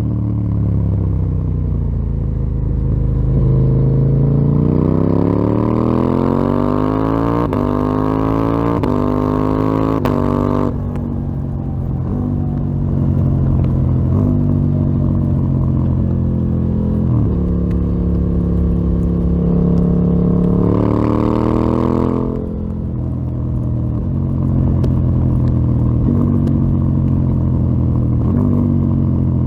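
KTM 890 Duke R's parallel-twin engine through a full Akrapovic exhaust system under way. There is a long pull rising in pitch for several seconds that drops away sharply about ten seconds in. It then runs at a series of steady engine speeds, with another short rise and sudden fall a little past twenty seconds.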